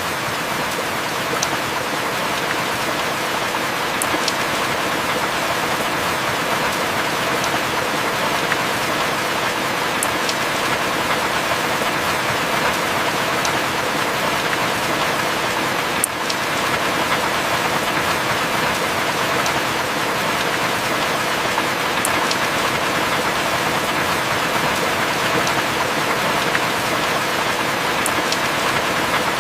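Heavy rain falling steadily, a dense even hiss, with a few faint sharp drip ticks every several seconds.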